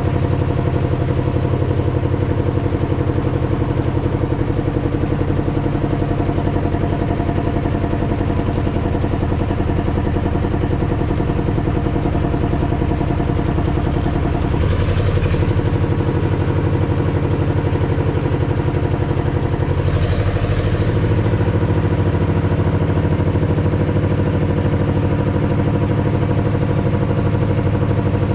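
Small boat engine running steadily at constant speed, with two brief rushes of noise, about halfway and about two-thirds through.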